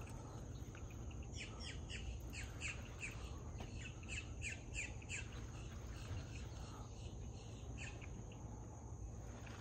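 A bird calling faintly: a run of about a dozen short, falling chirps, roughly three a second for a few seconds, then two more near the end, over a steady high insect drone.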